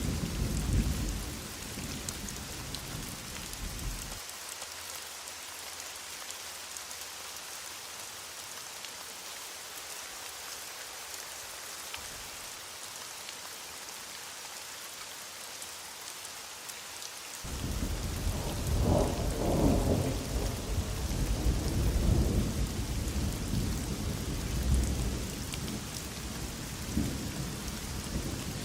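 Heavy rain falling steadily, with rumbling thunder. The thunder cuts off suddenly about four seconds in, leaving only the rain, then a rolling rumble starts abruptly a little past halfway and goes on to the end.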